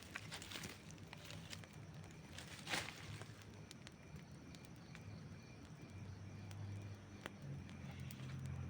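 Campfire crackling faintly, with scattered sharp pops, a louder pop a little under three seconds in. A low steady hum comes in about six seconds in.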